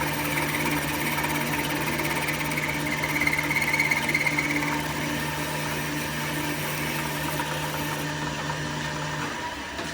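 A workshop machine's motor running steadily with a low hum, which stops shortly before the end.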